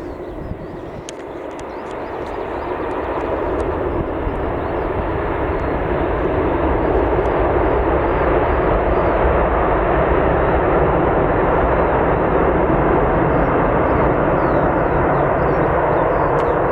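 Fixed-wing aircraft's engines, a steady rushing noise that grows louder over the first several seconds and then holds at full strength.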